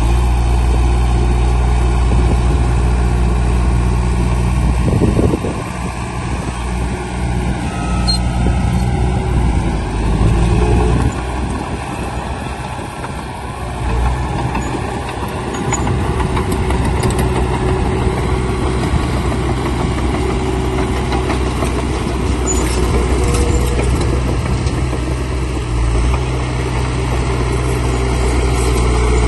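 Heavy diesel earthmoving machinery running steadily, a low engine hum that dips and changes with load a few times.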